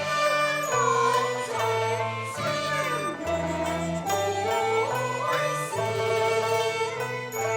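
Cantonese opera accompaniment ensemble playing a melodic instrumental passage, with held notes and sliding pitches over a moving bass line.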